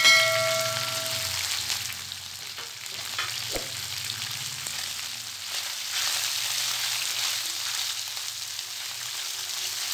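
Sliced chicken, baby corn and green pepper sizzling in hot oil in a nonstick wok, stirred with a wooden spatula. A short ringing clink at the very start.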